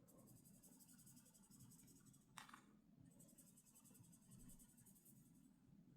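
Near silence, with faint scratching sounds in two stretches and a brief swish between them.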